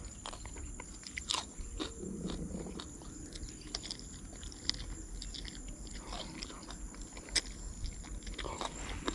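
A person chewing a mouthful of campfire-roasted tilapia close to the microphone, with faint irregular clicks and crunches.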